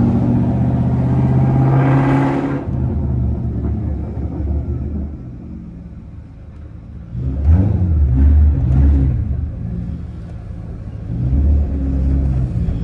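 Supercharged 4.6-litre V8 of a 2003–04 SVT Mustang Cobra accelerating, its pitch climbing for about two and a half seconds before it backs off to a low rumble. It pulls again about seven seconds in and briefly once more near the end.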